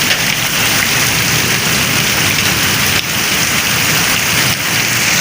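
Heavy rain pouring steadily, a loud, dense hiss of drops with no letup.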